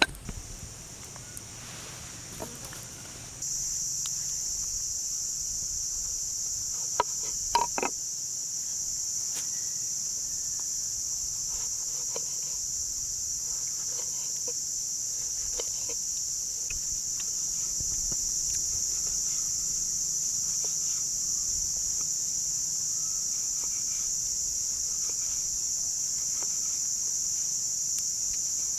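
A steady, high-pitched chorus of insects that starts suddenly a few seconds in, with a few sharp clicks and knocks a few seconds later.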